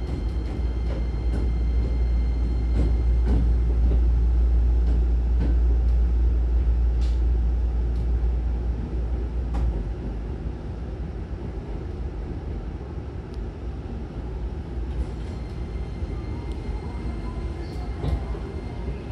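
Hankyu Kyoto Line train heard from inside the car as it pulls into a platform: a low rumble of wheels and running gear dies away about ten seconds in as the train slows to a stop, leaving a quieter steady hum. A few light clicks from the wheels and car body.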